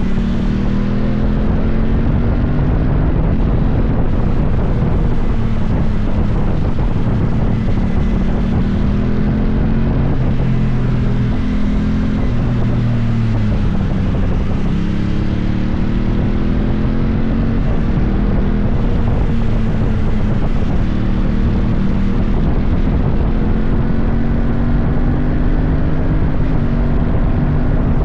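Motorcycle engine running under way, its note rising and falling in slow sweeps as the revs change, with wind buffeting the microphone.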